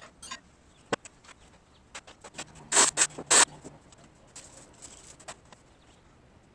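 Scattered light clicks and taps, with three louder, sharp scraping knocks in quick succession about three seconds in.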